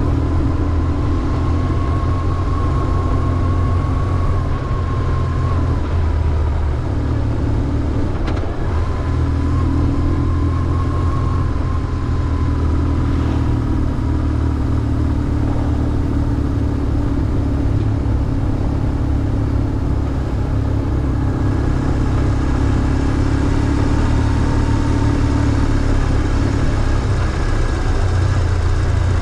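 BMW R1150GS motorcycle's boxer twin engine running steadily on the move.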